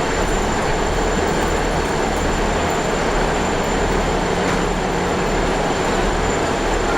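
Diesel passenger train running, heard from inside the carriage: a steady rumble and rolling noise with a constant low hum and a faint high whine.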